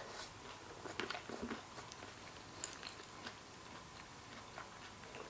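Close-up mouth sounds of chewing spicy horseshoe crab egg salad: faint wet clicks and smacks, a small cluster about a second in and a few scattered ones after.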